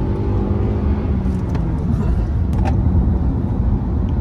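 Car driving away, heard from inside the cabin: a steady low engine and road rumble, with the engine's tone easing off within the first two seconds and a few light clicks.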